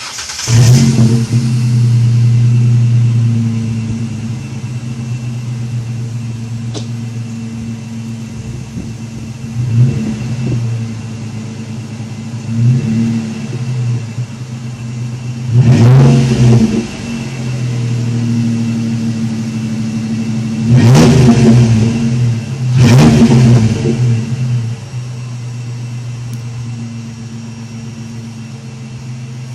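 2009 Ford Ranger V6 exhaust through a Thrush welded muffler: the engine starts with a brief flare, then idles steadily. The throttle is blipped about five times, each rev rising and falling back to idle, the biggest ones about two-thirds of the way through.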